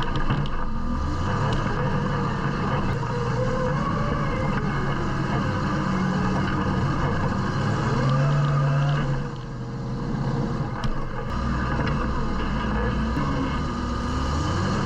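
UTV engine running under load while rock crawling, revving up and down with the throttle so its pitch rises and falls; it briefly eases off about nine seconds in.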